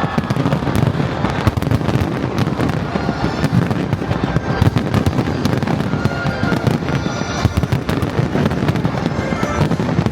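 Fireworks display: a continuous, dense barrage of shell bursts and crackling, many bangs a second with no let-up.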